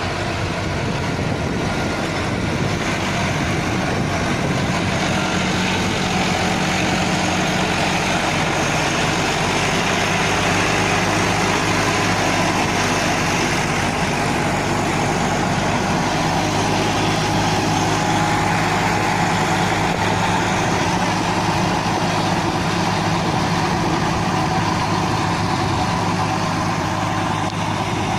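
Heavy vehicle engine running steadily at a constant pitch.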